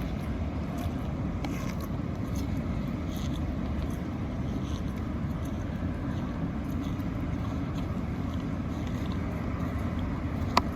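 Steady low rumbling outdoor noise, with one sharp click near the end.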